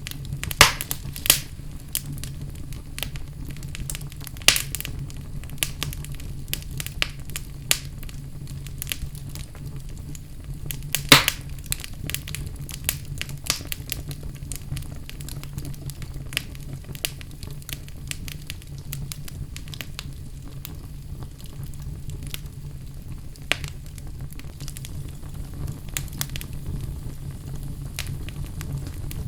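Wood fire burning in a fireplace: a steady low rumble with frequent crackles and occasional sharp pops.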